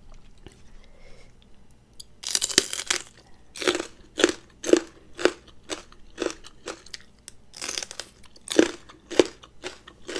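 A person chewing a mouthful of crunchy food close to the microphone, spicy rice-noodle salad with raw side vegetables: a long crunch about two seconds in, then steady chewing about twice a second.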